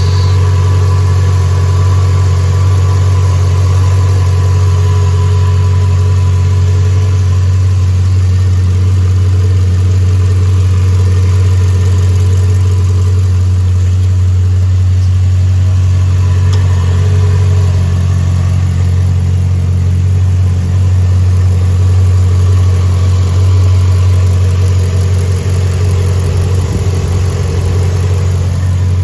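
2003 Ford Fairlane G220's 5.4-litre V8 idling steadily shortly after a cold start, with the engine still cold.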